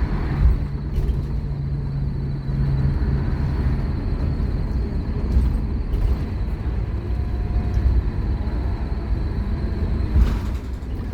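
Scania K230UB Omnilink bus's nine-litre five-cylinder diesel engine working under hard acceleration, a steady rumble with a humming note that drops away about three seconds in, along with a few knocks and rattles from the body.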